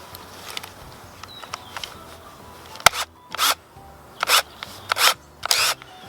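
Handling noises: one sharp click about three seconds in, then four short scraping rustles.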